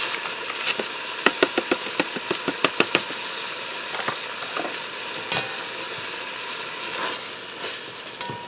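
Ground beef frying in a pot with a steady sizzle. About a second in comes a quick run of sharp taps, and later a few knocks and scrapes as a spatula stirs the meat.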